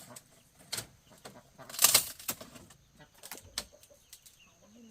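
Chickens moving about in a coop. About two seconds in there is one loud rustling burst of wing flapping, among scattered light clicks and scratches.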